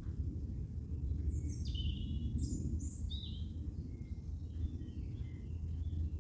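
Steady low outdoor rumble, with a songbird singing a short run of high, falling notes about a second in, followed by fainter chirps.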